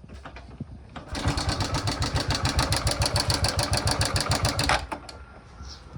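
Hero Glamour's single-cylinder four-stroke motorcycle engine running briefly with a fast, even clatter of about eight to nine beats a second. It starts about a second in and stops abruptly near the end. The mechanic puts the noise down to the timing.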